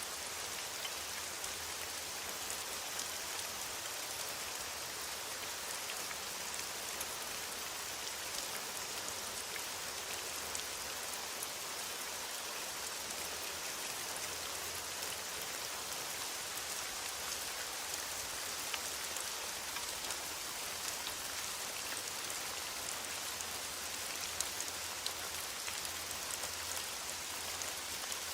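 Steady rain falling on foliage: an even hiss with scattered drop ticks.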